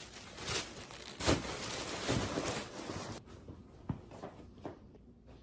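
Rustling and handling noise as baby onesies are held up and moved about, with a sharp knock about a second in; it dies down after about three seconds to a few light clicks.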